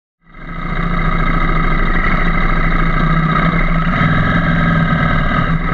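Motorcycle engine running steadily, fading in about a quarter second in.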